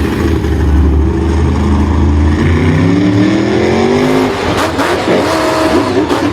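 A vehicle engine running at a low steady pitch, then revving up with a rising pitch from a little before halfway in, followed by several knocks and rattles near the end.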